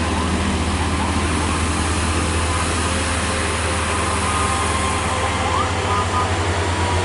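Heavy truck's diesel engine running with a deep, steady drone.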